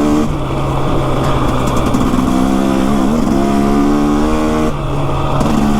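Motorcycle engine running while riding, holding steady revs. The pitch dips and comes back up about three seconds in, then drops away briefly near the end before picking up again.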